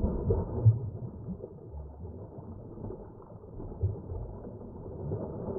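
Wind buffeting the microphone with a steady low rumble, and a couple of dull thumps about a second in and near the four-second mark.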